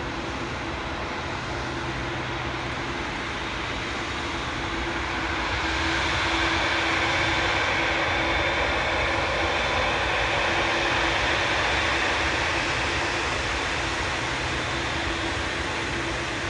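Jet airliner engine noise, a steady rushing sound with a faint hum that swells about five seconds in, holds, then eases off slowly.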